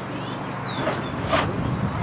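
Small birds chirping over a steady low hum, with one sharp knock about a second and a half in.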